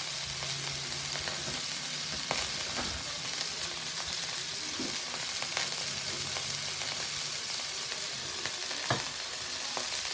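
Chopped vegetables stir-frying in a black wok over a wood fire: a steady frying sizzle, with a few sharp clicks scattered through it.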